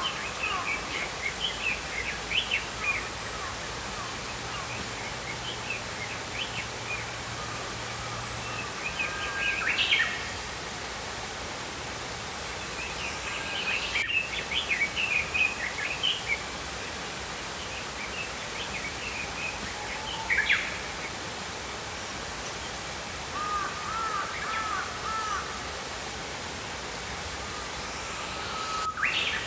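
Small songbirds chirping and twittering in short, scattered phrases over the steady rush of a small stream.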